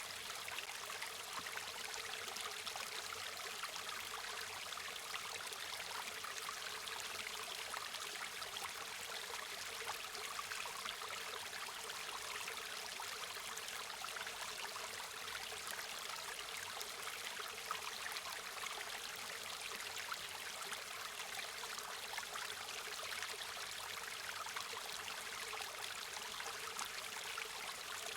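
A river or stream running steadily over rocks: a continuous rushing and babbling of water with fine splashy detail and no change in level.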